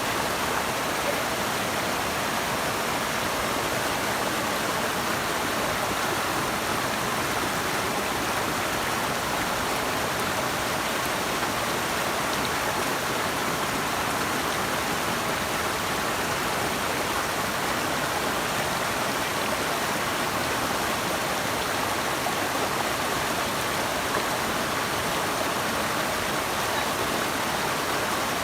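Running water: a steady, even rush of flowing water with no change in level.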